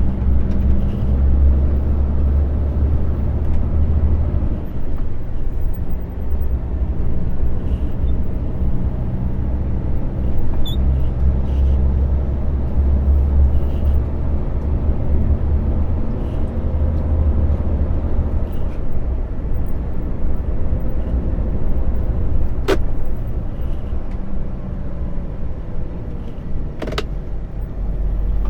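A lorry driving, its engine and road noise making a steady low rumble. Two sharp clicks come near the end.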